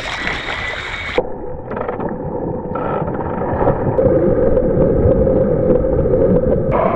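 Wind buffeting the microphone over the sound of water around a kayak, with a hissy splash in the first second and another near the end.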